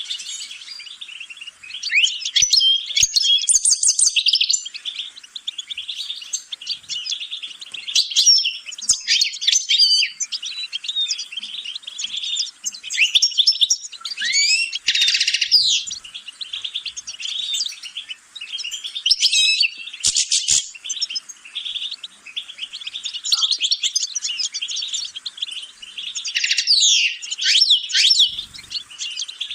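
European goldfinch (chardonneret) singing a long, fast twittering song of rapid chirps, trills and gliding notes, with brief pauses between phrases.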